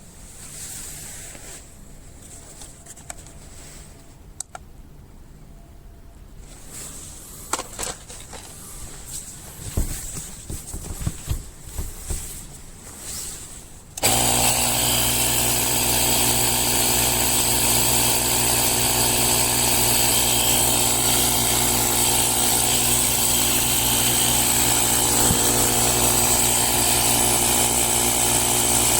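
A few clicks and knocks, then about halfway through a small rechargeable air compressor starts abruptly and runs steadily with a loud, even mechanical hum.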